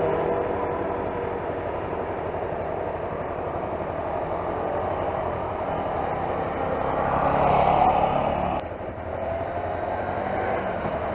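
Motorcycle under way on the road: a steady engine drone mixed with heavy wind rush. It grows louder about eight seconds in, then drops off suddenly.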